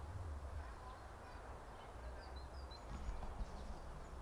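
Faint outdoor ambience: a few short, high bird chirps a little past the middle, over a steady low rumble.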